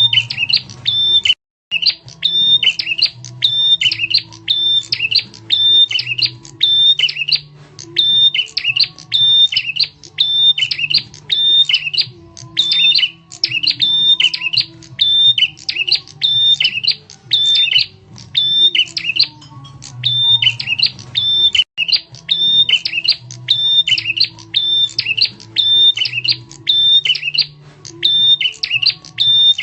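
Prenjak tamu bird lure call: loud, sharp chirping notes repeated about twice a second in an unbroken loop, with a low hum underneath. The sound breaks off for an instant twice.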